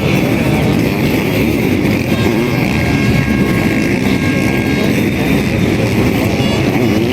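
Engines of sidecar motocross outfits running hard on the race track, a loud, steady engine noise.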